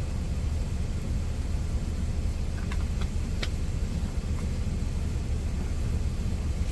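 Steady low rumble of an idling truck, with a few light clicks about three seconds in.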